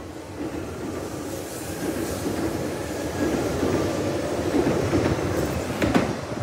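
E5-series Shinkansen train moving along the platform: a steady rumble of wheels on rail with some clatter, and one sharp clack near the end.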